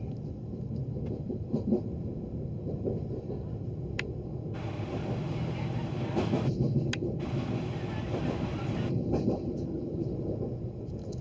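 Running noise inside a moving passenger train: a steady low rumble with light rattling, and two sharp clicks about four and seven seconds in.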